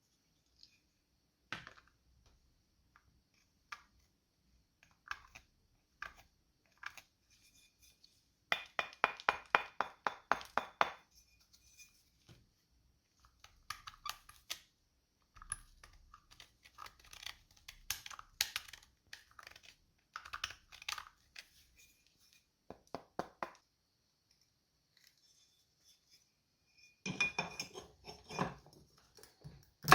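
Small metal carburetor parts clinking and being handled on a workbench. There are scattered sharp clicks, with a quick run of ticks about a third of the way in and a busier spell of clatter near the end.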